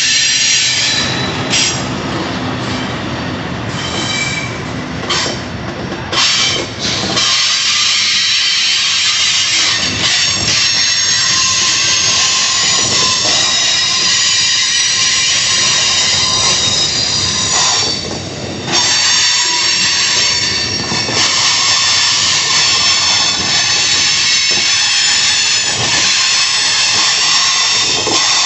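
Freight train rolling past, its steel wheels squealing against the rails in a continuous high-pitched, multi-tone screech. A low rumble under the squeal is heavy at first and drops away about seven seconds in.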